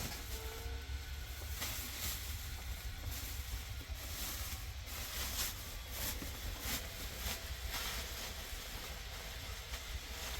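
Wind buffeting the microphone in a snowstorm: a steady low rumble under a hiss, with irregular short crackles throughout.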